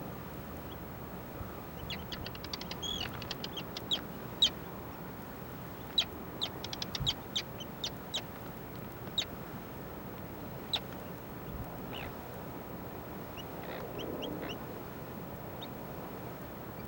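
A small bird calling: sharp, high chips, some run together in quick rattling series and others single and spaced out, over a steady background hiss.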